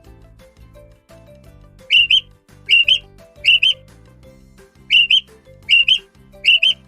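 A bird gives six short, sharp, high two-note calls in quick series, over soft background music. The calls begin about two seconds in.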